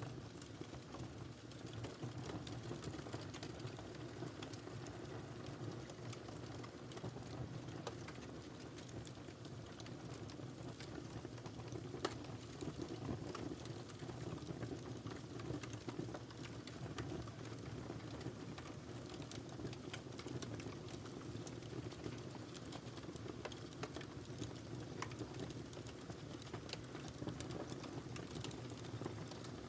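Wood fire burning in a fireplace, crackling and popping steadily over a low, even rumble, with one sharper pop about twelve seconds in.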